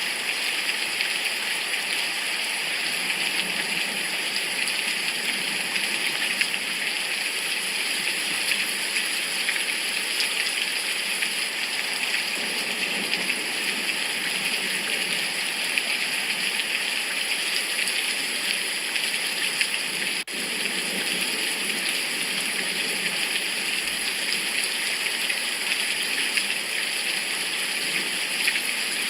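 Steady heavy rain falling and pattering on surfaces, an even hiss with a momentary break about two-thirds of the way through.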